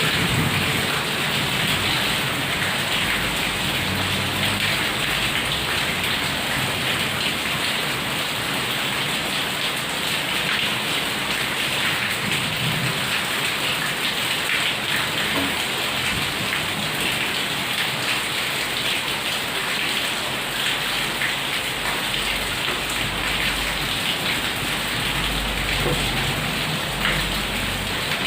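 Heavy rain pouring steadily, with low rolls of thunder rumbling now and then, one near the start and a longer one near the end.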